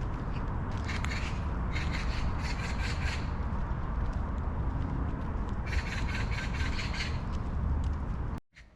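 A bird giving two bursts of rapid, repeated calls, one from about one to three seconds in and another around six to seven seconds, over a steady low rumble; the sound cuts off suddenly near the end.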